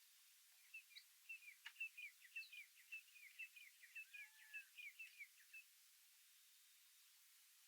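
Faint bird chirping: a quick run of short, high twittering notes that starts under a second in and stops after about five and a half seconds.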